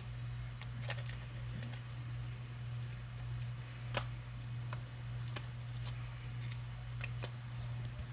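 Trading cards being handled and shuffled, with scattered light clicks and a sharper tap about four seconds in, over a steady low electrical hum.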